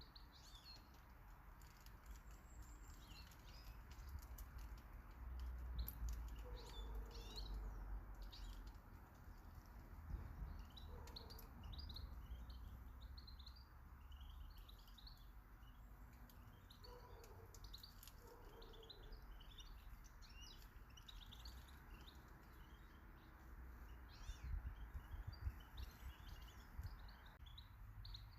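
Small garden birds chirping and twittering faintly, many short high notes in quick runs with a few lower notes among them, over a low steady rumble.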